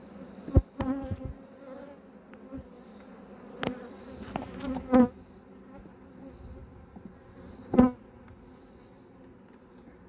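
A swarm of honeybees buzzing steadily around an open hive, with individual bees buzzing loudly past the microphone a few times.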